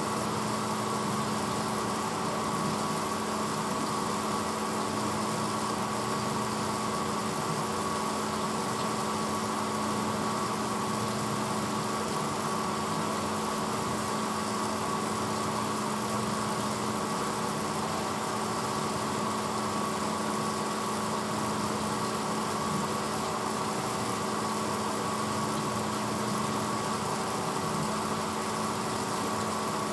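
1986 Hotpoint Potwasher dishwasher running partway through its cycle: a steady motor hum with a constant tone over an even wash of noise.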